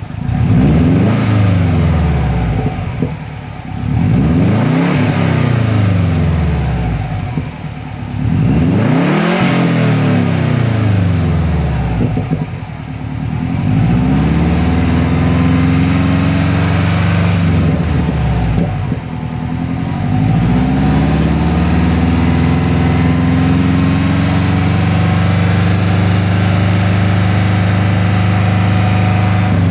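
2006 Subaru Legacy GT's turbocharged 2.5-litre flat-four running through a custom cat-back exhaust with Magnaflow mufflers. The engine is revved up and back down three or four times, then holds a steady pitch for the second half.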